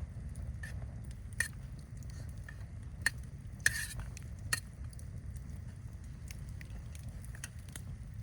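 Campfire crackling: scattered sharp pops, a few louder ones in the first half, over a steady low rumble.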